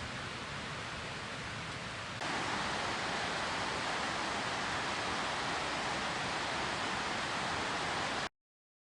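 Steady rushing noise with no distinct events. It steps louder about two seconds in and cuts off abruptly near the end.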